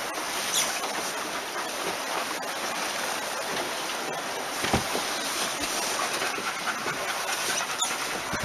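Steady hiss of water rushing past a sailboat's hull under strong wind, with one short knock about five seconds in.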